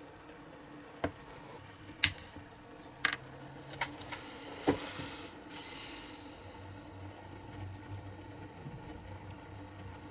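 Five sharp clicks and taps of small hard objects being handled over the first five seconds, followed by a short hiss, over a faint steady background hum.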